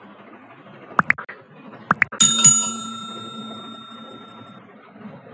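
Two quick pairs of sharp clicks, then a bright bell ding that rings on and fades over about two seconds.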